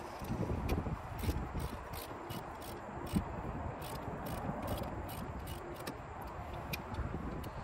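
Wind rumbling on the microphone, with scattered light clicks and scrapes of hand tools at irregular intervals.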